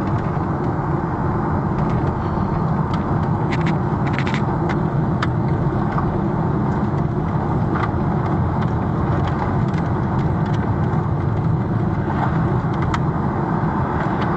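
Steady road and engine noise inside a moving car's cabin, with scattered faint ticks.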